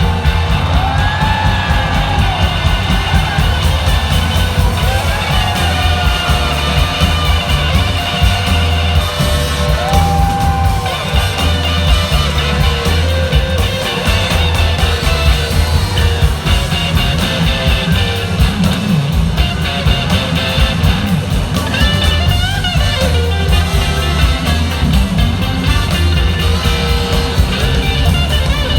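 Live blues-rock band playing an instrumental passage: electric guitar lead whose notes slide up and down over bass and drums, recorded from the audience.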